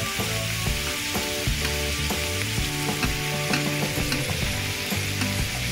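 Pork belly and kimchi sizzling and frying on a seasoned cast-iron cauldron lid, stirred with chopsticks. Underneath run held low notes that change pitch every half second or so, like a tune.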